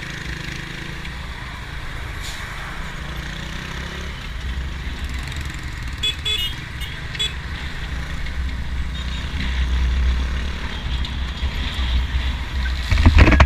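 Motorcycle being ridden in traffic: steady engine and road rumble from the bike and the vehicles around it, swelling about ten seconds in, with a loud burst of noise near the end.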